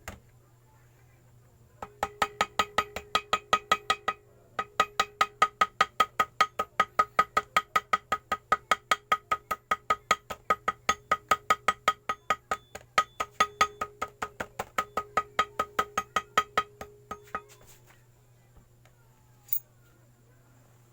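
Small hammer tapping rapidly and evenly, about five strikes a second, each with a ringing metallic tone, as gasket paper is tapped out against an engine case to cut a homemade gasket. The tapping pauses briefly about four seconds in and stops a few seconds before the end.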